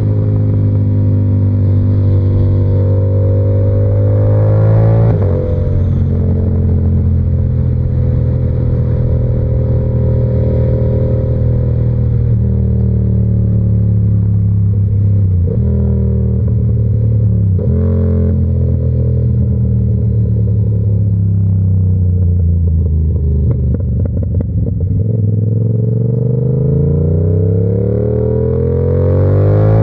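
Yamaha R7's 689 cc parallel-twin engine, through an SC-Project exhaust. It pulls up through a gear and shifts about five seconds in, then cruises steadily. It winds down gradually with a couple of gear changes, then accelerates again near the end.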